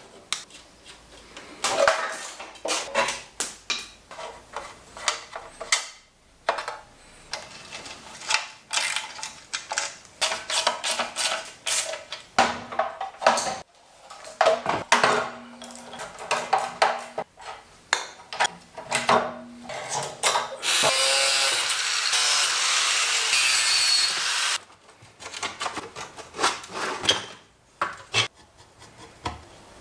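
Hand tools and loose metal parts clinking, knocking and scraping in quick irregular strikes. A steady loud hiss lasts about four seconds about two-thirds of the way through.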